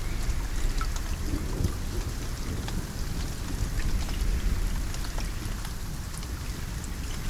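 Steady rain falling, with many scattered drop ticks over a continuous low rumble.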